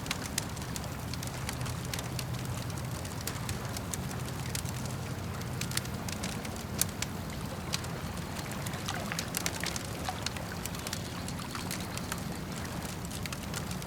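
Campfire crackling, with frequent small sharp pops and snaps scattered irregularly over a steady low rumble from the lake water.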